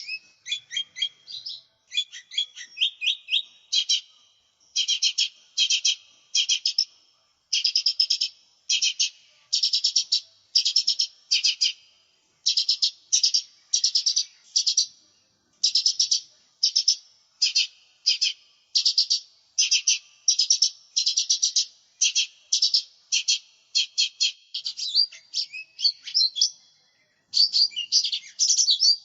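Lesser green leafbird (cucak ijo mini) singing: a steady run of short, rapid chattering trills, about one or two a second, with a few brief pauses.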